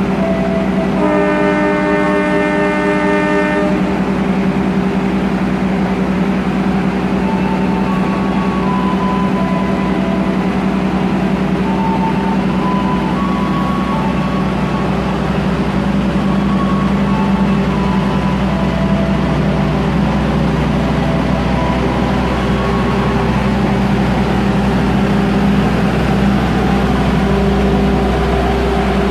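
Arriving passenger train: a diesel locomotive's engine running with a steady low hum, and a train horn blast about a second in that lasts about three seconds.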